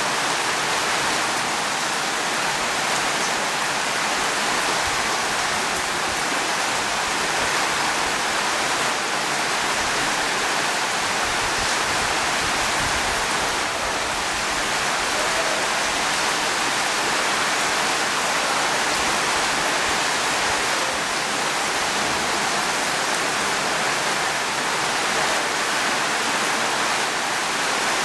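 Steady heavy rain, a dense even hiss that holds unchanged, with no thunder.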